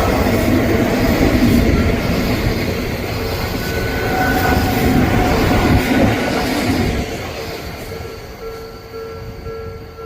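Odakyu Line electric train passing, its wheels running over the rails, the noise dying away after about seven seconds. A level crossing warning bell rings with a steady, even pulse as the train fades.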